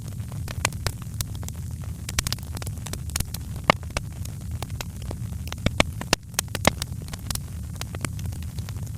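Fireplace fire crackling: irregular sharp pops and snaps over a steady low rumble, with a few louder pops around the middle.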